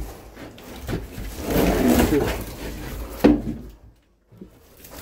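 Split firewood logs being handled and stacked: irregular wooden clunks and scrapes, with one sharp knock about three seconds in, then a brief pause.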